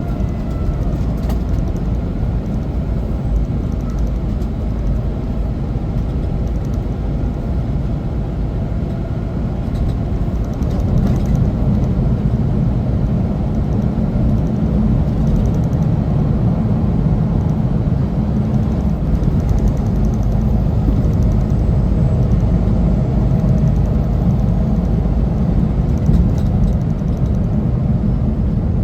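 Semi truck driving, a steady low rumble of engine and road noise that gets louder about eleven seconds in.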